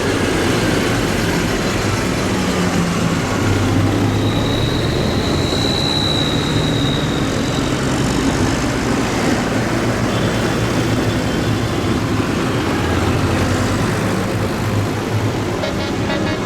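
Tractor engines running as a tractor procession passes, a steady mass of low engine sound. About four seconds in, a high thin tone sounds for about three seconds.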